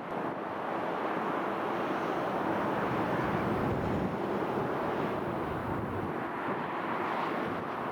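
Steady rushing noise of an airliner's engines, mixed with wind on the microphone.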